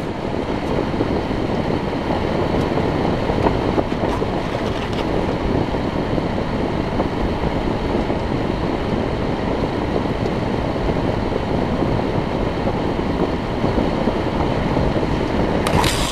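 Steady road and tyre noise with a low engine hum, heard inside the cabin of a moving car.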